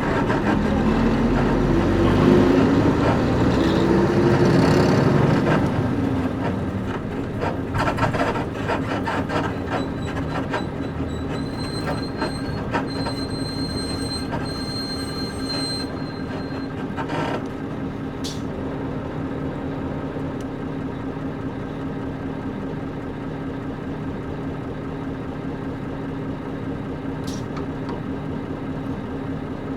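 Cabin sound of a Nissan Diesel KC-UA460LSN bus with a PG6 diesel engine. The engine rises in pitch as the bus accelerates for the first few seconds, then settles into a steady cruising hum. Creaks and rattles, typical of its leaf-spring suspension, come through the middle, along with a thin high squeal for a few seconds.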